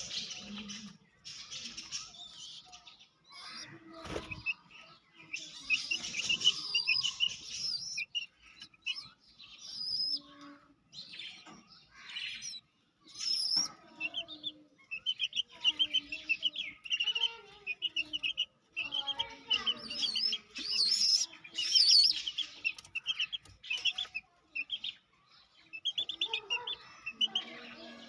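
A baby chick peeping over and over in quick high cheeps, with bursts of wing flapping and scuffling from a pigeon pecking at it.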